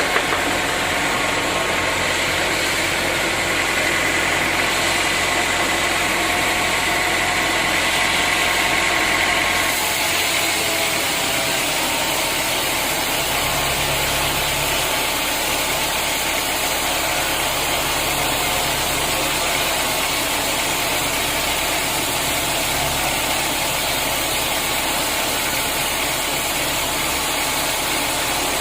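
Sawmill machinery running steadily. About ten seconds in, a high whine stops and the running sound changes pitch, then carries on evenly.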